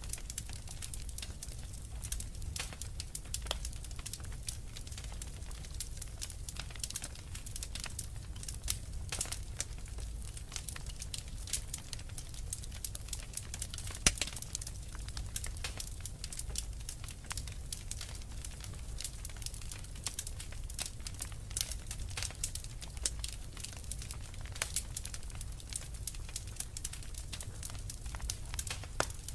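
Wood fire burning in a fireplace, crackling with dense irregular pops and snaps over a low rumble, one sharper pop about halfway through.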